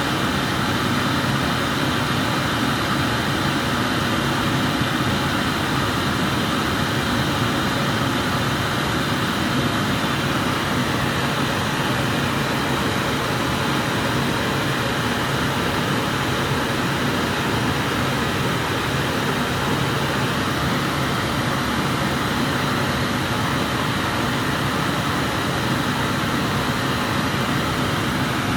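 Glassblower's gas burner flame running with a steady, even hiss.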